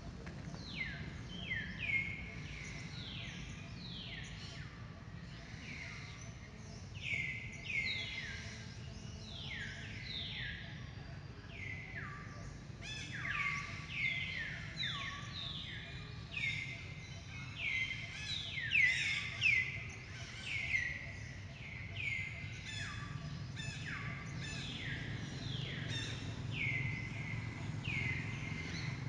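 Birds calling in the trees: many short calls, each sliding down in pitch, overlapping irregularly and often several a second, over a low steady rumble.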